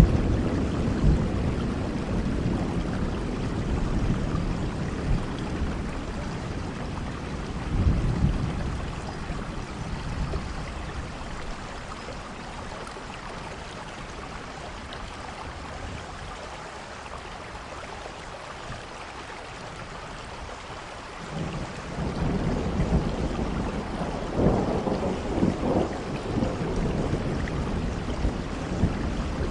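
Steady rain with rolling thunder. A low rumble dies away over the first few seconds, and a shorter one swells near 8 seconds in. The rain then runs quieter until a new roll of thunder builds about two-thirds of the way through and keeps rumbling.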